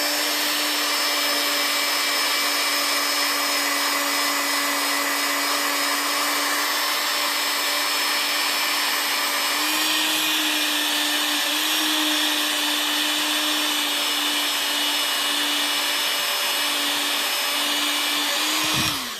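Adjustable-speed Dremel rotary tool running at high speed, buffing a pistol barrel with high-gloss polishing compound: a steady high whine with a hiss over it. Near the end it is switched off and winds down with a falling pitch.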